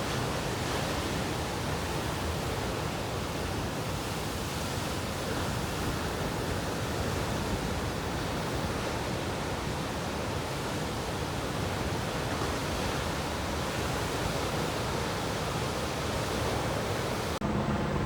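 Steady rushing noise of ocean surf. Near the end it changes abruptly to a low, steady hum.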